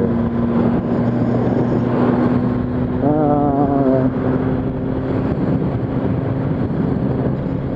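Yamaha R1's inline-four engine holding a steady note while cruising at highway speed, with wind noise on the helmet microphone.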